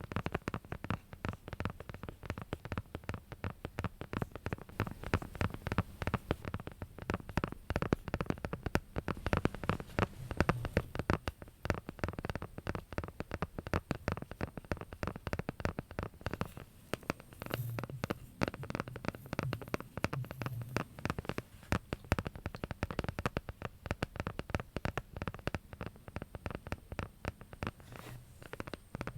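Rapid, continuous tapping and scratching with fingers on a hard object, many quick clicks a second without pause.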